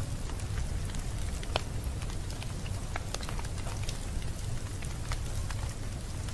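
Wood fire in a fireplace crackling, with irregular sharp pops and snaps over a low steady rumble; one louder pop about a second and a half in.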